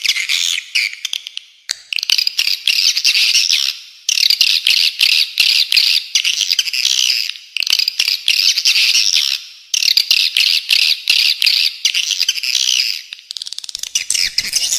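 Recorded bird calls from a masteran training track of spiderhunter and swiftlet: dense, rapid, high chattering in phrases of about two seconds, repeated with short breaks.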